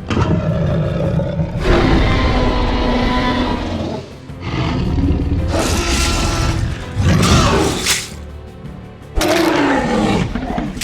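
A series of loud, cartoon-style dinosaur roar sound effects over background music, several of them falling in pitch.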